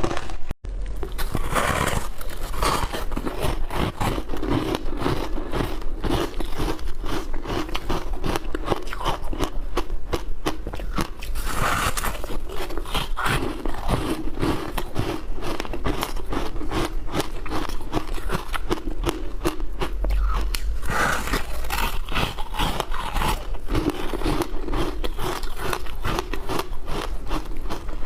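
Ice being bitten and chewed close to the microphone: a dense, unbroken run of crisp crunches and cracks.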